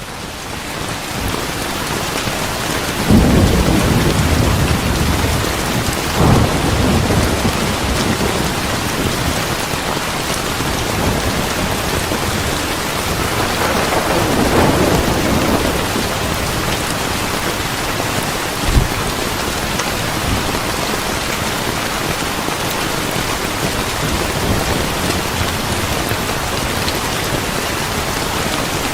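Steady heavy rain with rolling thunder. A loud rumble comes about three seconds in, another around six seconds, a longer roll around fourteen to fifteen seconds, and a short sharp thunder crack near nineteen seconds.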